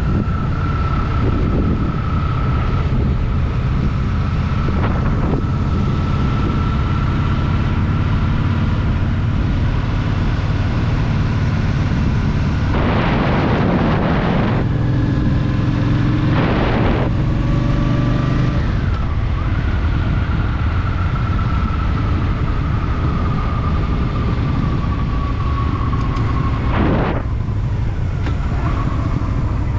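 Honda Shadow VT750's V-twin engine running steadily while riding, with wind noise on the microphone. Brief louder whooshes of noise come three times: a little before halfway, soon after, and near the end.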